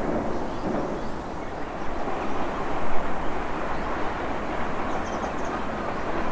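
Odakyu Line electric train running round a curve, a steady rumble of wheels on rail, with a few faint high chirps about five seconds in.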